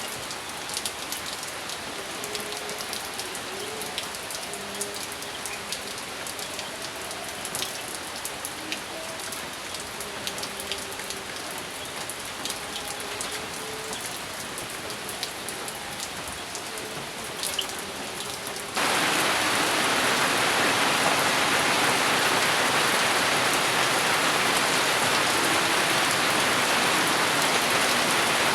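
Steady rain with distinct drops ticking through it and faint wavering tones underneath. About two-thirds of the way in, it switches abruptly to a louder, denser downpour hiss.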